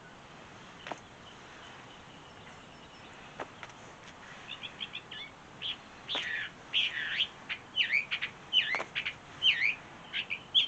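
A songbird singing: a run of quick high chirps and swooping down-and-up notes that starts about four seconds in and grows louder, over a quiet outdoor background with a few faint clicks.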